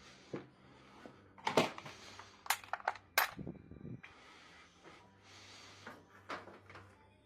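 Sharp clinks and knocks of metal and plastic parts and tools being handled while a washing machine is put back together, a cluster of them about one and a half to three seconds in and a few lighter ones near the end.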